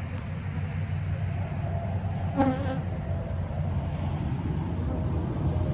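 A honey bee colony buzzing around an opened hive as its frames are inspected, a steady low hum, the agitated buzz of disturbed bees. A brief louder sound comes about two and a half seconds in.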